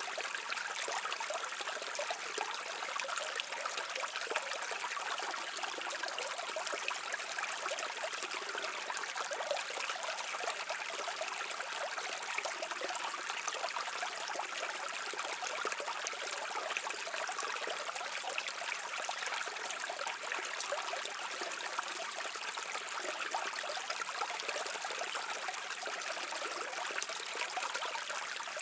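A brook flowing steadily: an even rush of water with fine trickling and splashing.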